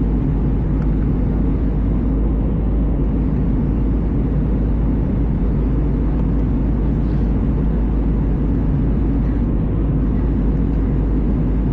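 Steady low roar of an Airbus A320 in flight, heard from inside the passenger cabin: engine and airflow noise with no change in level.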